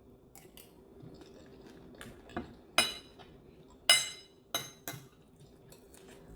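Metal cutlery clinking against a plate while eating: a few light taps, then four sharp ringing clinks in the second half.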